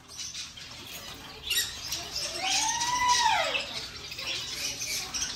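A pet parrot calling: a short harsh squawk about a second and a half in, then one drawn-out call that rises and falls in pitch.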